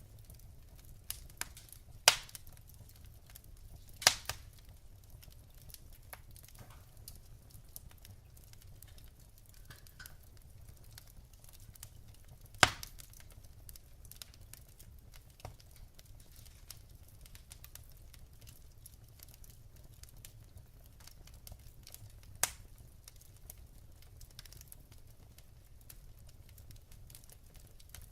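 Wood logs burning in a fireplace, crackling: scattered faint ticks with a few sharp pops, the loudest about two, four and twelve and a half seconds in and another near twenty-two seconds.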